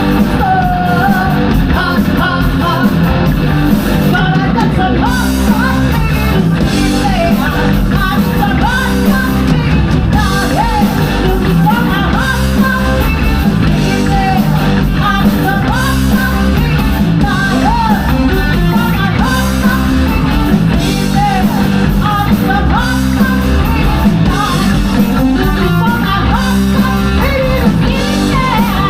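Live rock band playing a song at full volume, with a lead singer over electric guitar, bass and drums.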